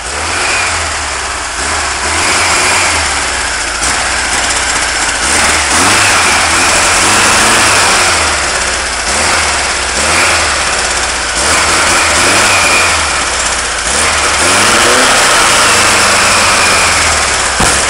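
Freshly built 1776 cc air-cooled VW flat-four, with a mild cam, EMPI carb and headers, running on its first start. It is revved up and back down again and again, the pitch rising and falling with each blip.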